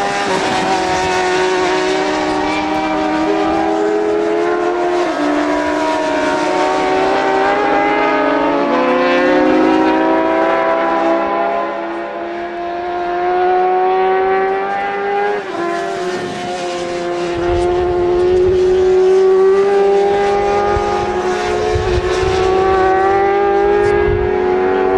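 Several racing motorcycle engines running hard around the circuit, their pitches rising and then dropping in steps as riders shift gears, with more than one bike heard at once. A heavier low rumble joins in during the last third.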